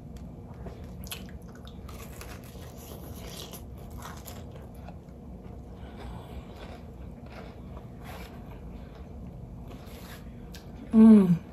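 Close-up chewing and crunching of breaded fried catfish, with wet squishy bites where it has been dipped in sauce. Near the end, a short loud voiced hum that falls in pitch.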